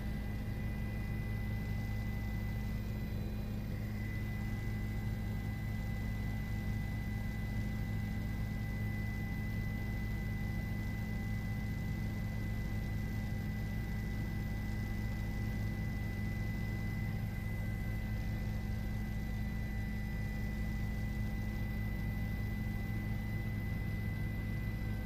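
Helicopter cabin noise: a steady low drone with a constant high whine that doesn't change.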